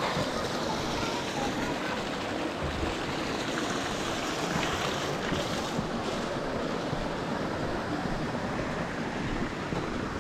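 Steady rushing noise with a few faint, scattered clicks.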